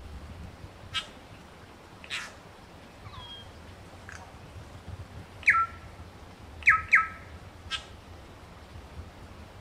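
New Zealand bellbird (korimako) giving short, harsh calls. A few scattered chirps lead into louder calls that sweep down in pitch, two of them in quick succession about seven seconds in.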